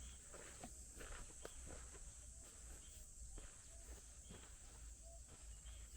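Faint rural outdoor ambience: a steady high insect drone with a low rumble underneath and a few faint, short animal or bird calls.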